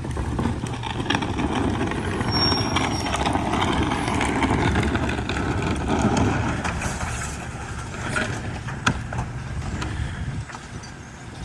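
Garbage truck running, with a louder stretch of mechanical rumble and clatter over the first several seconds, then a few sharp knocks about eight to nine seconds in.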